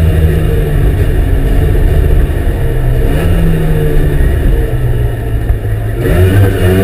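Trabant 601's two-stroke two-cylinder engine running hard under load, heard from inside the rally car's cabin. The note holds steady, steps up in pitch about three seconds in, and changes again near the end.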